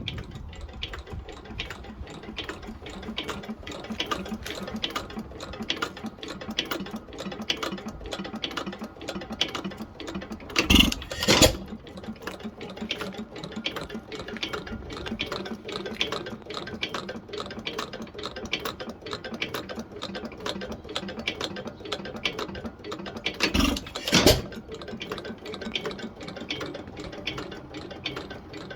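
1912 Pilter YA stationary engine running, its mechanism giving a fast, even clatter of ticks, with two louder bursts about thirteen seconds apart, about a third of the way in and again near the end.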